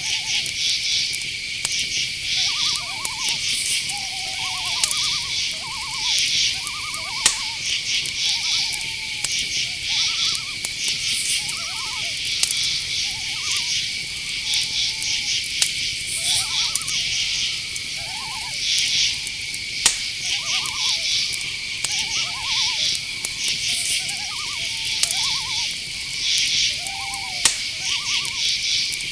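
Night forest ambience: crickets trilling steadily with pulsing insect chirps above them, under frequent short, curving owl hoots. A few sharp clicks stand out now and then.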